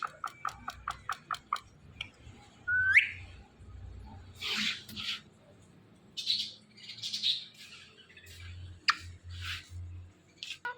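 Indian ringneck parrot calling: a quick run of clicks, then a short rising whistle, then several harsh, raspy chatter notes.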